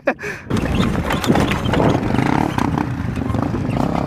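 Trail motorcycle engine running under throttle, coming in suddenly about half a second in and holding steady.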